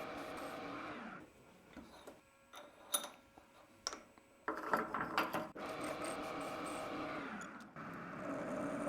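A motor-driven machine tool running steadily while the sawn end of a steel tube is squared up before TIG welding. It stops for about three seconds, with a few clicks and knocks in the pause, then runs again.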